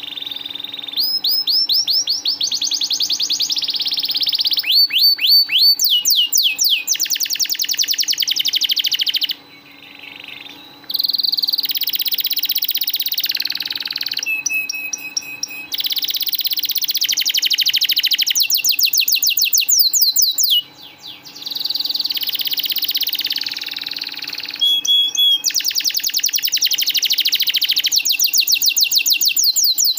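Domestic canary singing long rolling trills: very fast repeated notes in phrases several seconds long, changing pitch from phrase to phrase, with two brief pauses. A faint steady low hum runs underneath.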